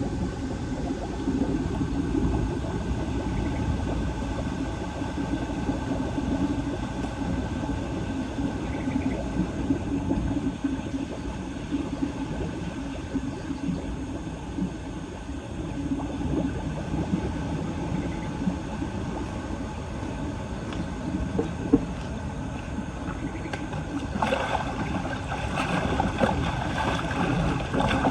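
Steady rush of floodwater draining away through a cleared street drain.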